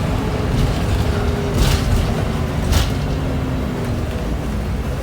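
Scania L94IA articulated bus's diesel engine running steadily, with two short hisses near the middle.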